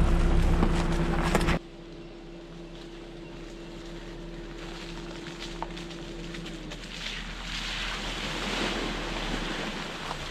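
Background music cuts off suddenly about a second and a half in. It leaves the quieter sound of a 4WD vehicle driving: a low steady hum with rushing noise that slowly grows louder.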